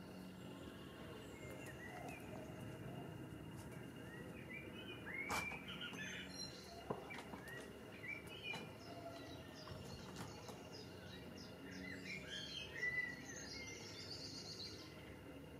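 Small birds chirping and calling in short phrases over a steady low background noise, with one sharp click about five seconds in.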